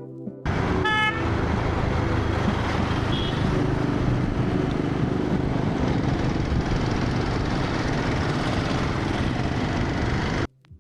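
Road traffic noise with a short vehicle horn toot about a second in; the noise starts and cuts off abruptly.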